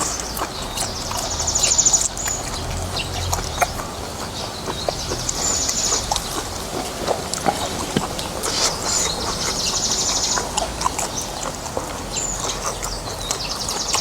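Eating sounds of noodle soup and beef: mouth noises with many short utensil and bowl clicks. Over them, a high, pulsed trilling call repeats about every four seconds.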